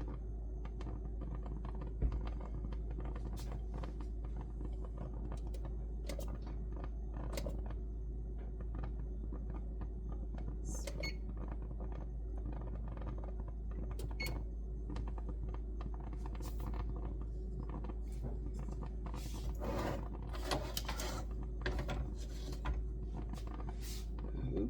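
Steady low hum of the room with scattered light clicks and taps, as of small objects being handled in a kitchen.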